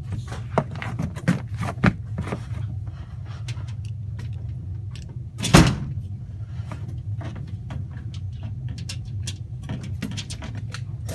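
Clicks, knocks and rattles from filters and sheet-metal access panels being handled on an air handler, with one loud bang about halfway through, over a steady low hum.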